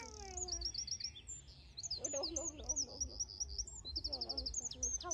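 Small birds chirping in quick high notes and short trills, overlapping throughout, with a fast run of chirps about four seconds in.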